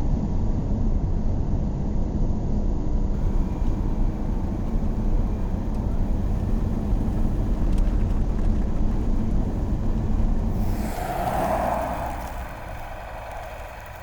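A vehicle driving, with a steady low engine and road rumble. About eleven seconds in it gives way abruptly to a quieter, higher hiss.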